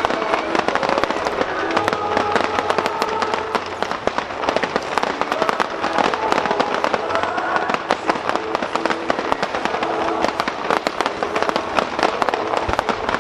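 A fireworks barrage: a dense, continuous run of quick pops and crackles from many small bursts in rapid succession. Accompanying music with sustained notes plays underneath.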